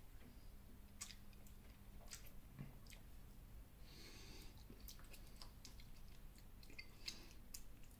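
Faint chewing of a mouthful of chicken burger with the mouth closed: soft, wet mouth clicks scattered throughout, and a short soft hiss about halfway through.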